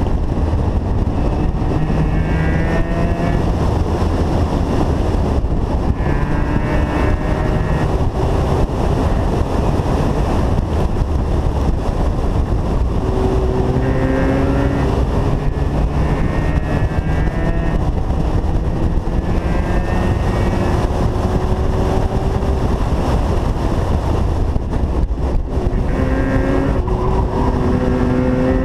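Car engine running hard on a track lap, heard on board, under a steady rush of wind on the microphone. Its pitch climbs slowly for several seconds at a time and drops back between climbs.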